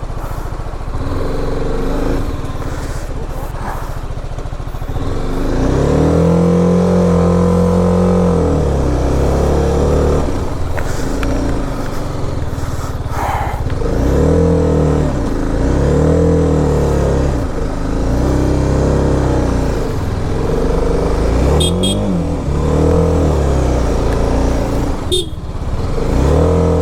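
BMW G 310 RR's single-cylinder engine revving up and down under load on a steep climb. The revs rise and fall once slowly, then again and again every second or two.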